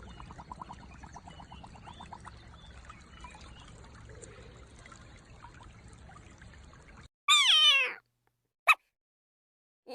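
A faint wet trickling, gurgling sound with a quick run of small pulses, which stops abruptly about seven seconds in, followed by a cat's loud meow falling in pitch and then one short, sharp call.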